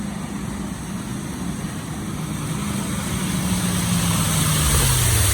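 A car engine coming closer and passing, louder as it nears, its note falling in pitch near the end, with a growing hiss of tyres on the flooded road.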